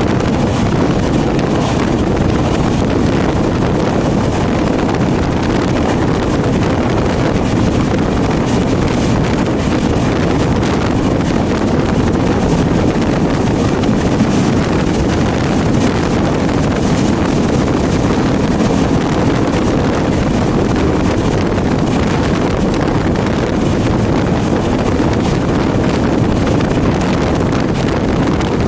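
Steady loud rush of wind on the microphone over the running rumble of a moving passenger train.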